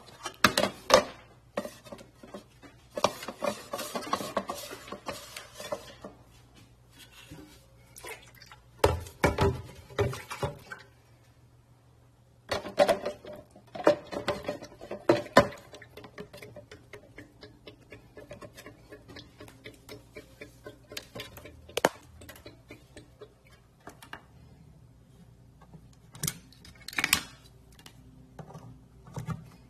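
Irregular clattering and knocking of hard objects being handled. It comes in several bursts with quieter stretches of light ticks between them.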